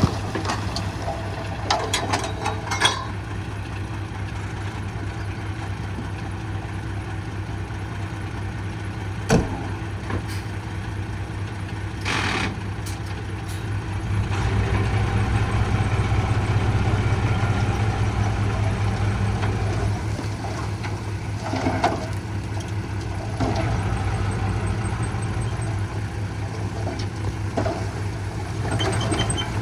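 Heavy machine engine running steadily, working harder and louder for several seconds about halfway through, with occasional sharp metal knocks and clanks.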